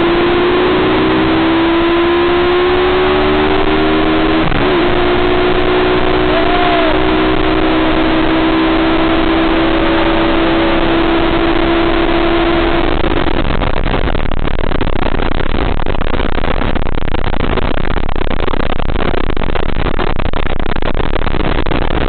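Mini bike engine running under way, buried in heavy wind rumble on the microphone. Its note climbs slowly over the first few seconds, dips briefly about four and a half seconds in, holds steady and is lost under the wind about 13 seconds in.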